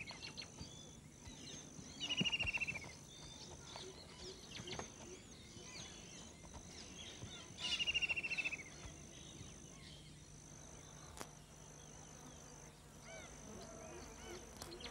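Wildlife ambience: a bird gives a quick descending trilled call twice, about five seconds apart. Under it run a high insect buzz in repeated pulses and soft scattered bird chirps.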